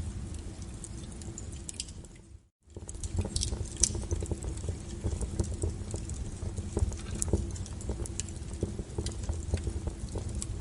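Wood fire burning, with frequent sharp crackles and pops over a low steady rumble. The sound cuts out briefly about two and a half seconds in.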